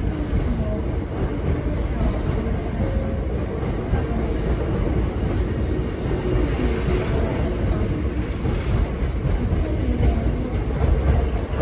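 Hankyu 7000-series electric train departing a station platform, its cars rolling past close by with a steady rumble of wheels on the rails.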